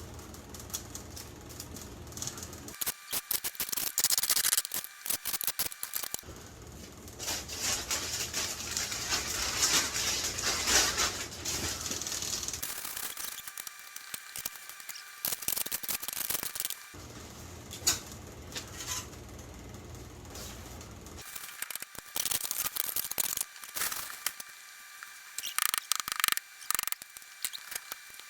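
Sand, spread to soak up furnace sludge, being scraped and swept up off the floor: gritty scrapes and scuffs in spells of several seconds, with quieter pauses between.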